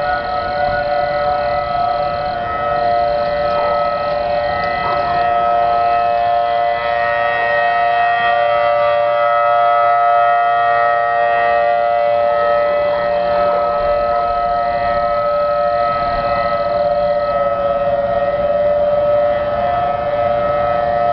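Outdoor tornado warning siren sounding a long, steady tone with several pitches held together, which dip slightly near the end.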